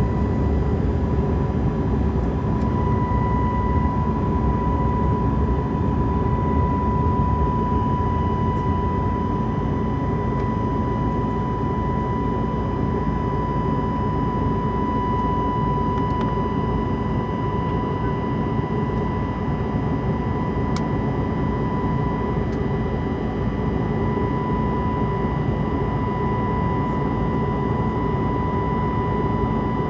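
Airbus A320 cabin noise in flight: a steady rush of engine and airflow noise with a constant high whine running through it.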